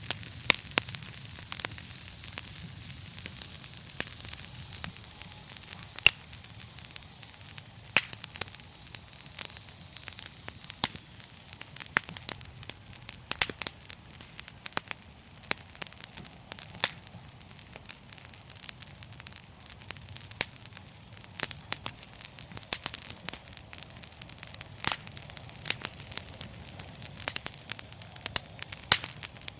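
Wood fire crackling: dense, irregular sharp pops and snaps over a steady hiss, with a faint low hum underneath.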